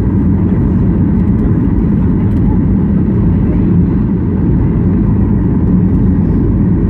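Airliner cabin noise on the approach to landing: a steady, loud low rumble of the jet engines and airflow heard from inside the cabin.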